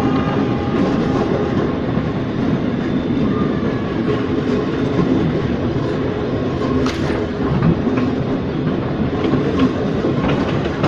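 Ex-JR 203 series electric multiple unit running along the track: a steady rumble of wheels on rail, with a faint whine and a few sharp clicks from rail joints, the clearest about seven seconds in.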